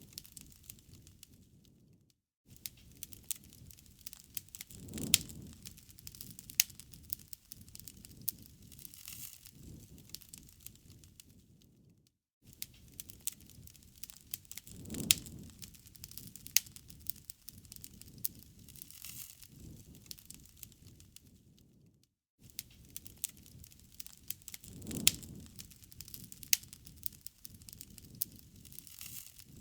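Wood fire burning, with a steady run of sharp crackles and pops over a low rumble and a louder flare-up now and then. The sound cuts out for a moment about every ten seconds and the same stretch repeats.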